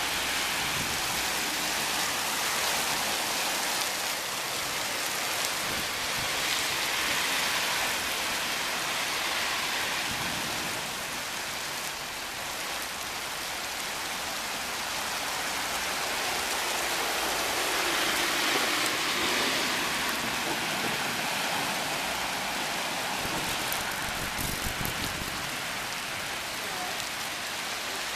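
Heavy rain pouring down steadily, a dense even hiss of downpour.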